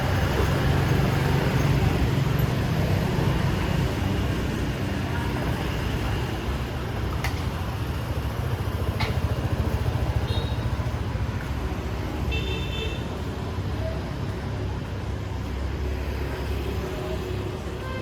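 Busy city street ambience: steady traffic rumble with voices mixed in. Two short high beeps come about ten and twelve seconds in.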